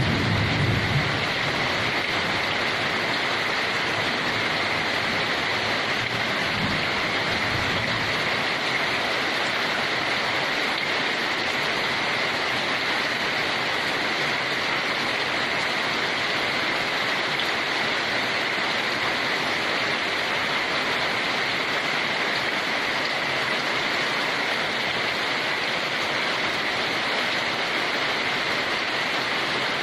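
Steady heavy rain: an even, unbroken hiss with no separate drops standing out. A low rumble fades out about a second in.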